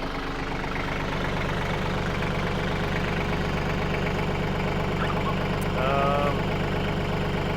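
Bad Boy 4025H compact tractor engine running steadily in the background with an even hum. A short vocal sound cuts in about six seconds in.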